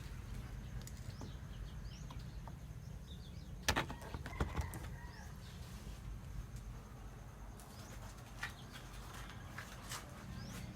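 Faint background birdsong, short high rising chirps here and there, over a low steady hum, with a few sharp clicks a little under four seconds in.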